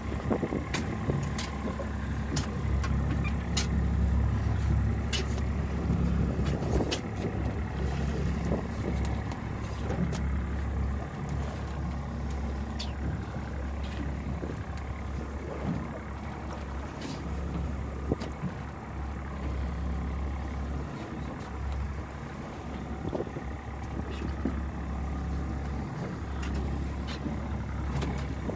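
A fishing boat's engine running with a steady low drone, with scattered short clicks and knocks over it.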